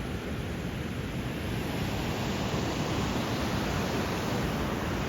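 Steady rush of white water from the River Tees at Low Force waterfall, heard from the footbridge over it, growing a little louder about a second and a half in.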